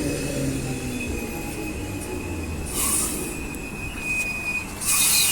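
Perth A-series electric train slowing into a platform. Its wheels give a steady high squeal and its motor hum drops in pitch as it slows, with two short hisses of air, one about midway and one near the end.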